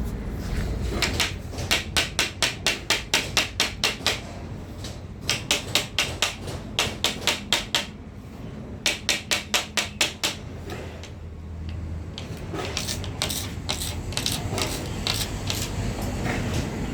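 Quick runs of sharp hammer taps, about five a second, in three bursts of one to three seconds each, followed by fainter, irregular taps near the end.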